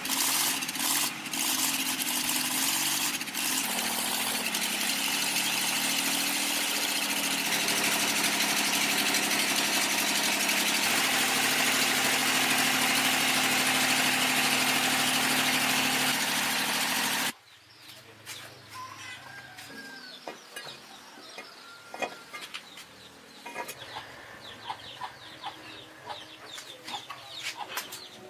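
Restored tractor engine running, its pitch shifting as it revs before settling to a steady run, then cutting off abruptly about two-thirds of the way through. After that, chickens cluck quietly.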